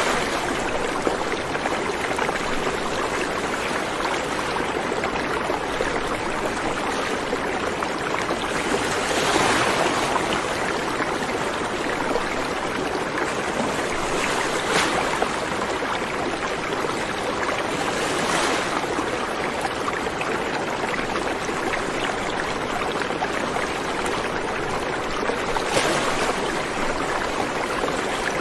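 River water flowing steadily over stones, a continuous rushing babble, with a few brief louder splashes.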